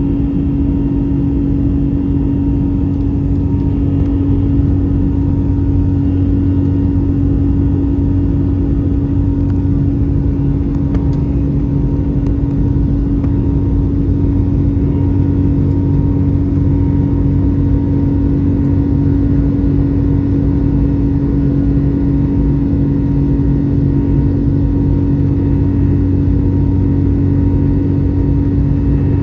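Steady cabin noise of an Airbus A321neo with its Pratt & Whitney PW1100G geared turbofan engines running at high power: an unchanging loud drone with a strong hum and a fainter higher whine, heard inside the cabin.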